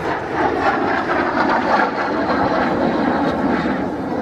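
A MiG-15 jet fighter's engine running loud in a display pass, its pitch falling slightly as it goes by.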